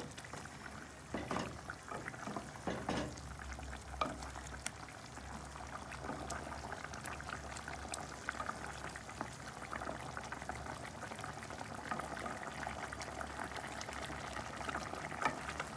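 Pot of curry chicken bubbling and popping as it simmers down into gravy, with a few knocks in the first few seconds.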